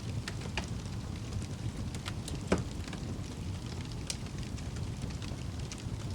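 Fire in a fireplace crackling over a low steady rumble, with scattered sharp pops, the loudest about two and a half seconds in.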